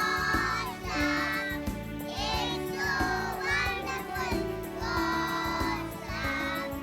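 Children singing a song in sung phrases over a steady instrumental accompaniment.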